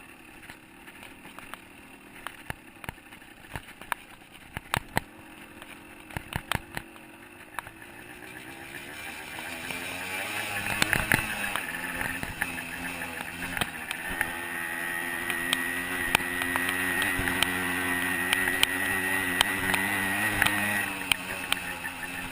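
125cc two-stroke dirt bike engine on a trail ride, quiet at first under frequent sharp clicks and knocks. It grows louder about a third of the way in and holds at higher, fairly steady revs with a thin high whine, then eases off near the end.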